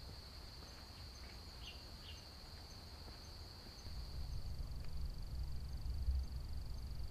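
Insects trilling steadily in one high, even tone, with a faint ticking pulse above it. About four seconds in, a low rumble of wind buffeting the microphone grows louder. Two faint short chirps come near the start.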